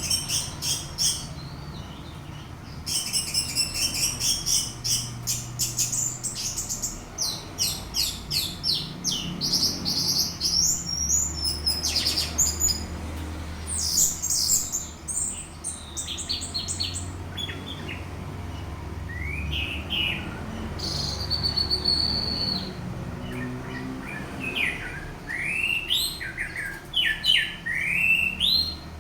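Orange-headed thrush singing a long, continuous, varied song: runs of rapid chattering notes, then separate quick rising whistles near the end.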